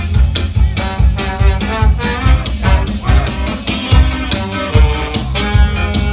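Instrumental break in a ska-punk song, without vocals: a band plays with drum kit and guitar over a steady beat.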